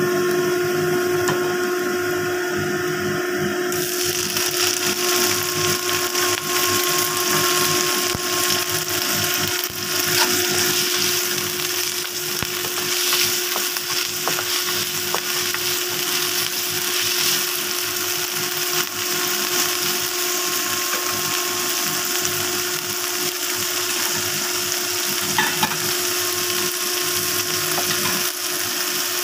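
Minced garlic and black fungus sizzling in hot oil in a wok as they are stirred. The sizzle gets louder a few seconds in. A steady machine hum runs underneath.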